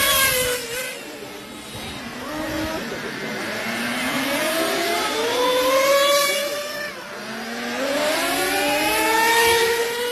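Small RC model motorcycles racing, their motors whining and rising in pitch as they accelerate past. The whine builds and falls away three times.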